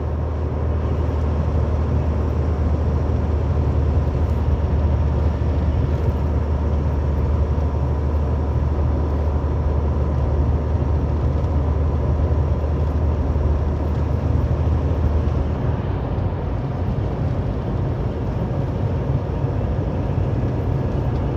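Inside a loaded tractor-trailer's cab at highway speed: steady low engine drone with road and wind noise. The low drone drops noticeably about three-quarters of the way through.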